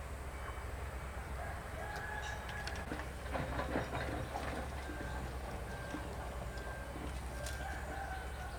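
Chickens calling with a rooster crowing several long held crows, over a steady low hum. A brief burst of clattering comes a little before the middle.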